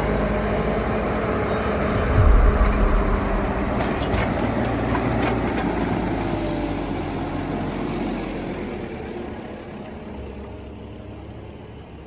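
Backhoe loader's diesel engine running, with a heavy low thump about two seconds in. The sound dies down over the last few seconds.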